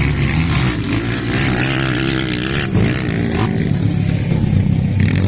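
Single-cylinder four-stroke engines of CG Pro motocross bikes (Honda CG-based) running hard on the track, their pitch rising and falling as the riders work the throttle and shift.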